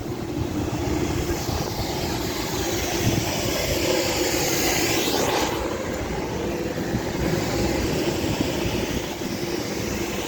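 Sonny's tunnel car wash equipment running, a steady rush with a hum beneath it. About halfway through, the rush sweeps in pitch as the car passes along the tunnel.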